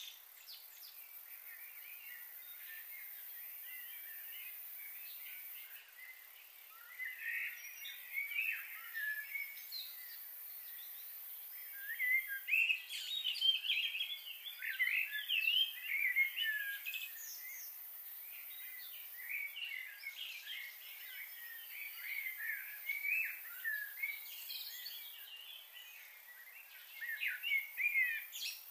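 Small birds chirping and twittering in many short, quick calls over a steady hiss. The chirping is busiest in the middle and again near the end.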